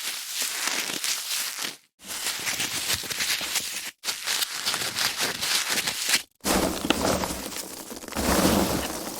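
Foam packaging being handled: a dense, scratchy rustle that cuts to dead silence three times, about every two seconds, between separate takes.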